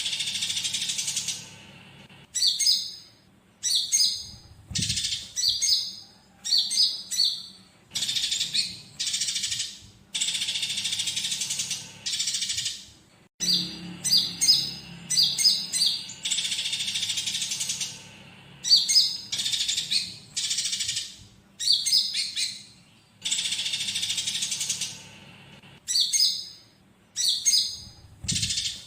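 Konin songbird singing: short bursts of high chirps and trills, one every second or two with brief pauses between. Its song is filled with mimicked squabbling house sparrow calls.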